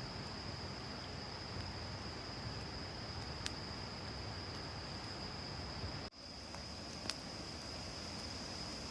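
Insects trilling in one steady high note, with a few sharp clicks over a soft outdoor hiss. The sound drops out for an instant about two-thirds of the way through.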